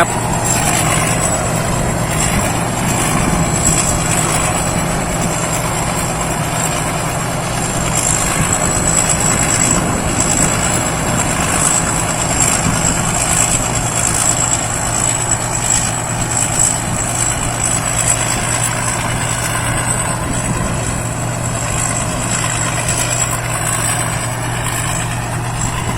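Rice combine harvester running steadily while harvesting, a continuous engine hum with a thin high whine over it.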